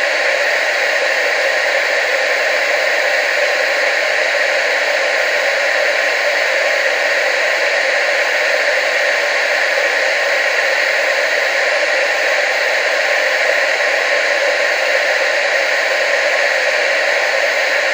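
Television static: a steady, even hiss centred in the middle and upper-middle pitches, with almost no bass, unchanging throughout.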